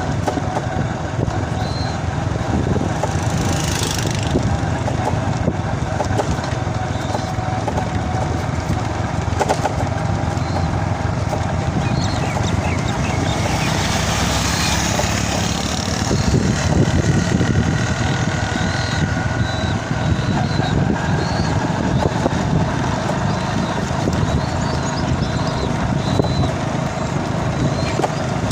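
Small motorcycle engine running steadily while being ridden, with wind and road noise.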